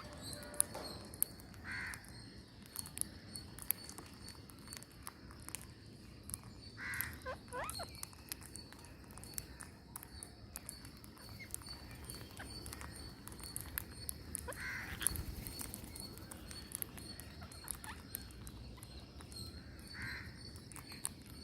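Birds calling outdoors: four short, harsh calls spaced several seconds apart, over a constant high-pitched pulsing trill and many faint clicks.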